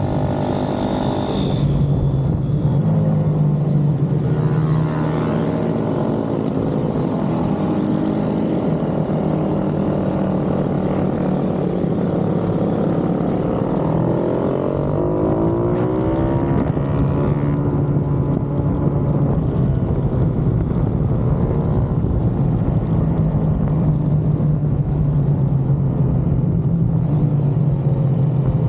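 Pit bike engines running hard, their pitch repeatedly rising and falling as the bikes rev and shift, over a steady low drone.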